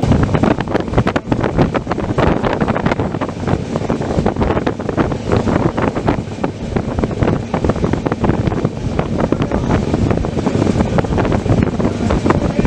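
Indian Railways express train running, heard aboard: a loud, steady rumble crowded with rapid clicks and rattles from the wheels and carriage, with wind buffeting the microphone.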